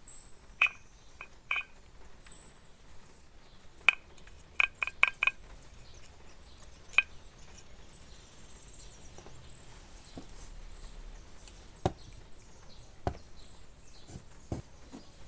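Scattered light clicks and taps from handling the opened hair dryer's plastic housing and parts, some with a short clinking ring, including a quick run of four clicks about five seconds in.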